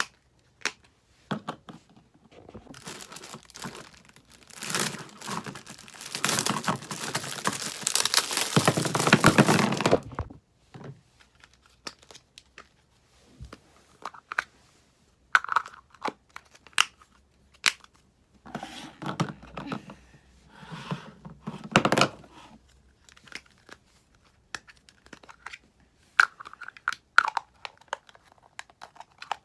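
Packaging being torn open and crinkled by hand during an unboxing, with small clicks and taps of handling. One long, loud stretch of tearing and rustling comes early, and shorter bursts follow later.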